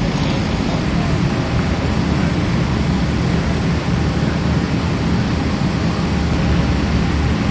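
Steady rumble of interstate traffic and vehicle engines, heavy in the low end, with no breaks.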